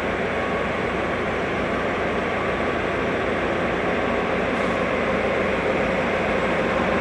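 EMD GP9 diesel locomotive running steadily during a switching move.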